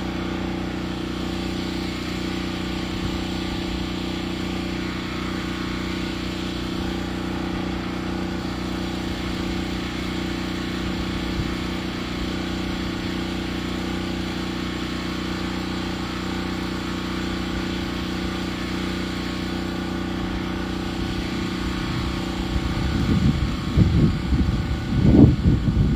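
An engine runs at a steady speed with an even drone. In the last few seconds an irregular low rumbling rises and gets louder over it.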